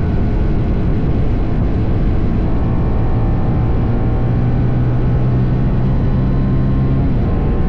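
TVS Apache RR310's single-cylinder engine, on its stock exhaust, running steadily under way over a continuous rush of noise. The engine note shifts about seven seconds in.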